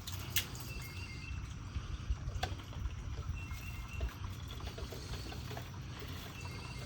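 Outdoor ambience: a steady low rumble with a few soft clicks or knocks and short, faint high chirps that come and go several times.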